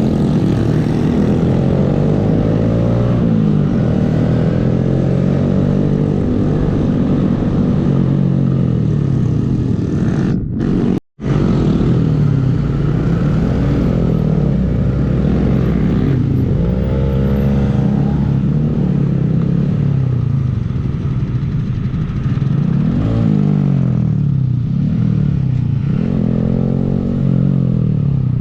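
Small Honda 125cc single-cylinder motorcycle engine running on the road, its pitch rising and falling again and again as the rider accelerates and shifts gears. The sound cuts out for a moment about ten seconds in.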